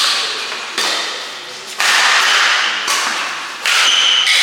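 Badminton rally: a shuttlecock struck hard by rackets about once a second, each hit a sharp crack followed by an echo that dies away.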